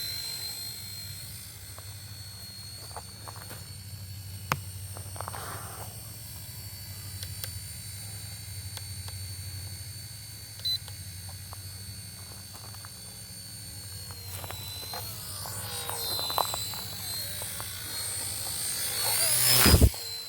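Radio-controlled helicopter flying: a steady high motor-and-rotor whine with a low hum beneath, wavering in pitch as it manoeuvres. It grows louder over the last few seconds, peaking just before the end as it comes close.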